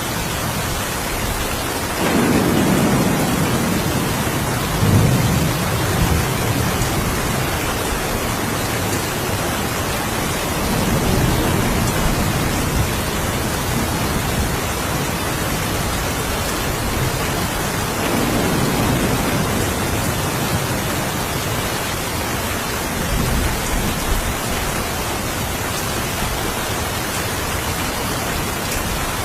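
Steady rain falling, with low thunder rolling in several times: one long rumble a couple of seconds in, another about a third of the way through, a third past the middle and a shorter one later on.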